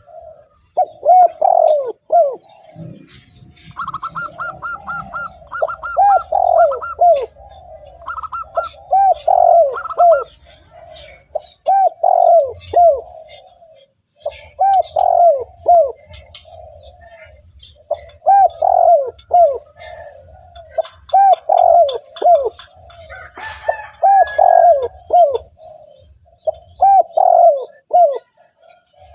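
Spotted dove (tekukur) cooing: its song in repeated phrases of a few low, down-sliding coos. The phrases follow one another every couple of seconds.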